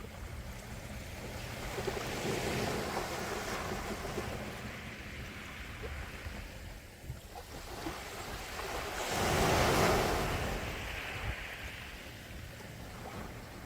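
Gentle sea waves washing ashore, the surf swelling and fading; the loudest wave breaks about nine to ten seconds in, over a steady low rumble of wind on the microphone.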